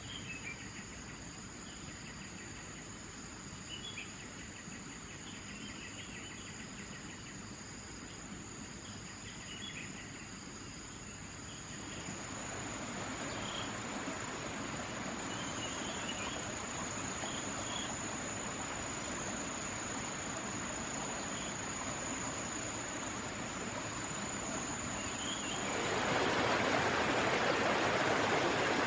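A steady high insect trill, cricket-like, with scattered short bird chirps, over a rushing noise that grows louder about twelve seconds in and swells again near the end, drowning out the trill.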